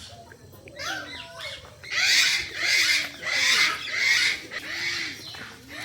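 A run of about five loud, harsh, screechy animal calls in quick succession, roughly one every three-quarters of a second.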